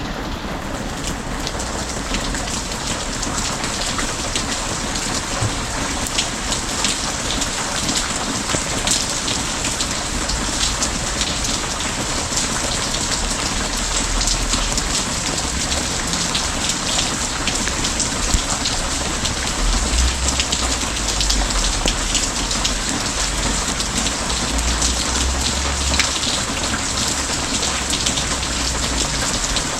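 Steady heavy rain falling, dense fast ticks of drops hitting a surface, with a low rumble coming and going in the second half.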